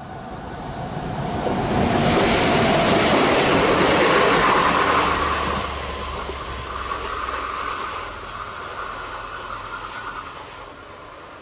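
SNCF Z 23500 TER 2N double-deck electric multiple unit passing, then running away: the rushing wheel-and-rail noise swells over the first two seconds, stays loud for a few seconds, then fades. A steady high whine carries on through the second half as the train recedes.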